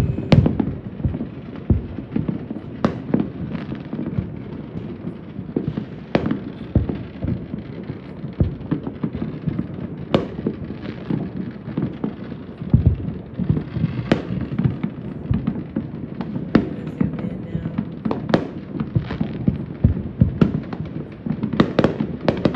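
Many fireworks going off across a city at once: booms of aerial shells and pops of firecrackers overlapping over a steady rumble, with a quick run of cracks near the end.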